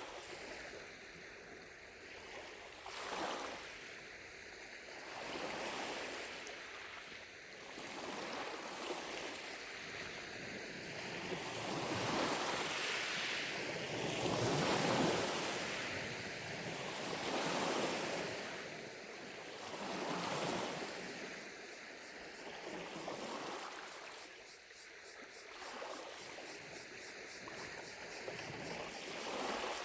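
Gentle lake waves lapping on the shore, washing in as swells every two to three seconds and growing louder about halfway through.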